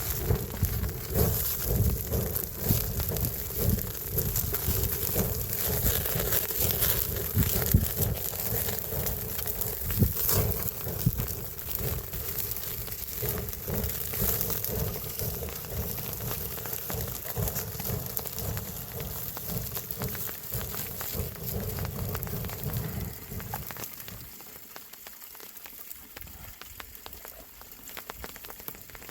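Rain pattering and crackling in many small drops, with a heavier low noise underneath that drops away about 24 seconds in, leaving a quieter patter.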